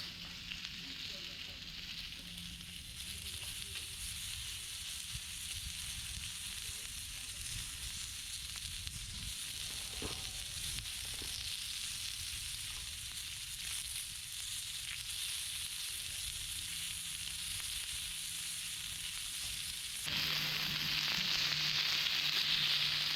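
Meat sizzling steadily on a hot grill plate over a fire stand, a continuous frying hiss. About twenty seconds in the sizzling jumps louder and brighter.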